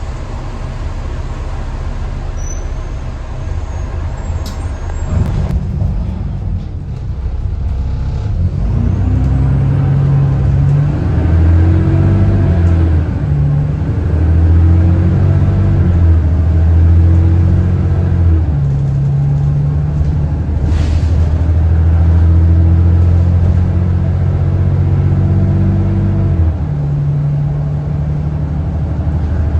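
Diesel engine of a single-deck service bus pulling away and accelerating. Its drone climbs and drops in steps as the automatic gearbox changes gear. It runs without the vacuum-cleaner-like whine the bus was nicknamed 'Hoover' for.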